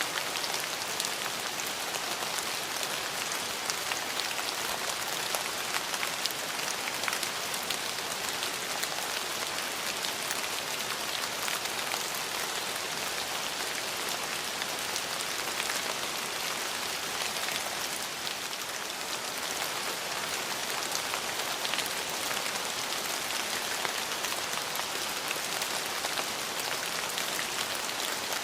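Steady rain falling, with a dense hiss and many fine drop ticks on hard surfaces.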